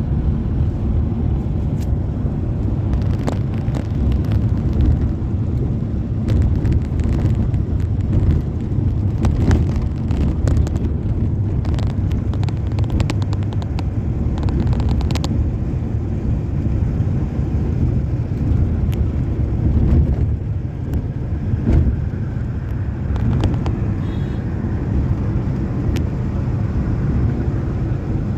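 Passenger train running: a steady low rumble of the moving coach, with scattered sharp clicks and rattles, most of them in the first half.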